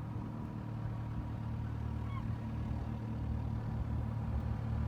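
A steady low machine hum with a few held tones, unchanging throughout.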